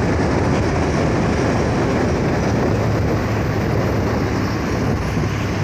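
Heavy truck running on the road, its engine and road noise making a steady, loud rumble.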